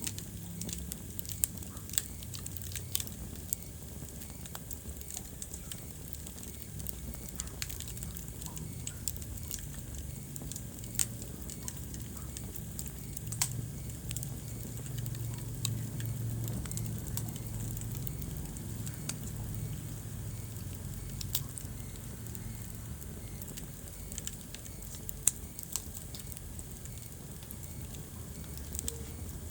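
Wood fire burning in a fireplace: a low steady rumble of flame with irregular sharp crackles and pops from the burning logs.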